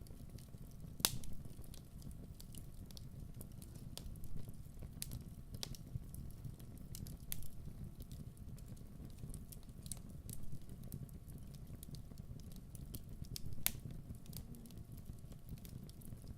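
Wood fire burning with a steady low rumble and irregular sharp crackles and pops, the loudest pops a second in and near the end.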